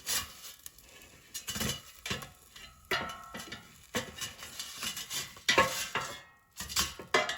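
A kitchen utensil clicking, knocking and scraping against a metal air fryer basket as breaded chicken cutlets are turned over halfway through cooking, in irregular strokes with a brief metallic ring about three seconds in.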